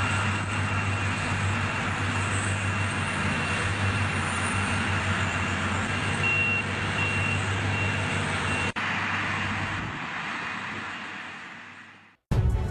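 Heavy truck engine running steadily, with a low hum and a constant high whine over it. It cuts briefly a little past two-thirds through, then fades out, and music starts right at the end.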